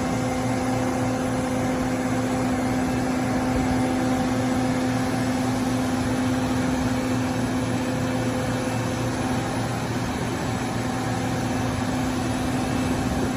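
Steady drone of a jet airliner, an even rush of noise with a constant low hum and a few fixed tones that holds at one level.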